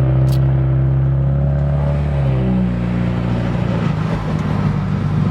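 Car engine running steadily under way, heard from inside the cabin, its pitch easing down a little about two seconds in. The oil has just been changed, and the owner says the car is running better for it.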